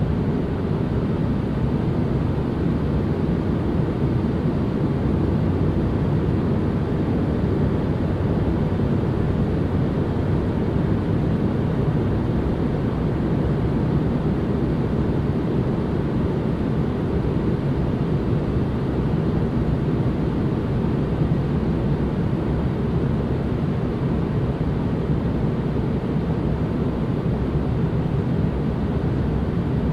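Steady ambient white noise: an even, unbroken rushing hiss, weighted toward the deep end, that does not change.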